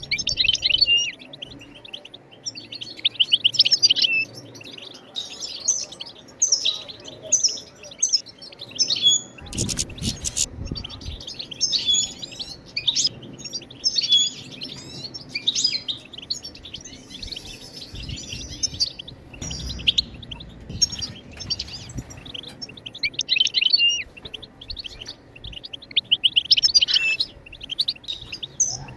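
European goldfinch twittering: repeated bursts of rapid, high chirps and trills with short gaps between them. A brief knock or rustle comes about ten seconds in.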